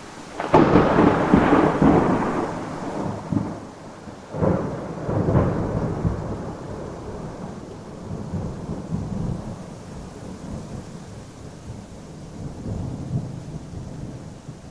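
Thunder over steady rain: a loud clap about half a second in that rolls into a long rumble, two more peals around four and five seconds in, then low rolling rumbles.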